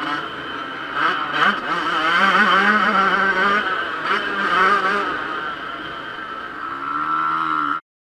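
Yamaha YZ125 single-cylinder two-stroke motocross engine revving hard, its pitch climbing and dropping repeatedly as the throttle is worked, then holding steady before cutting off suddenly near the end.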